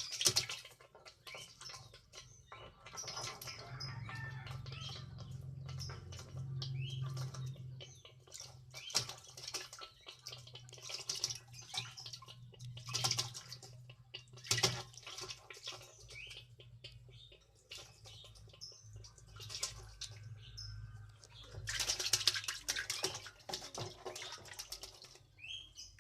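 A pet lovebird being bathed: repeated bursts of water splashing and wing flapping, with short high chirps from the bird now and then, over a low steady hum.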